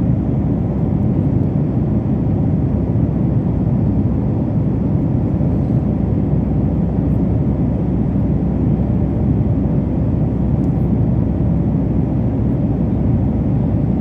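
Steady, even low rumble of an airplane, unchanging throughout.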